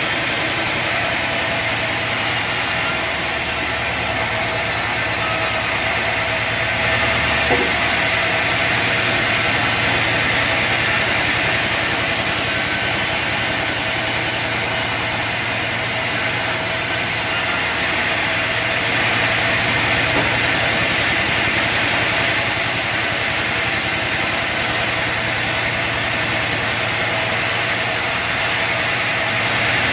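Bandsaw sawmill running steadily, a constant mechanical hum with a brief click about seven and a half seconds in.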